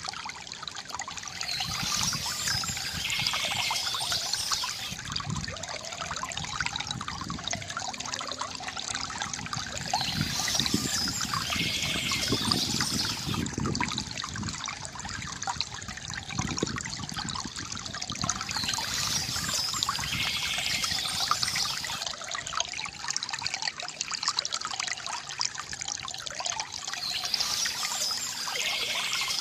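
Small stream trickling and splashing steadily, with spells of high bird song coming back about every nine seconds.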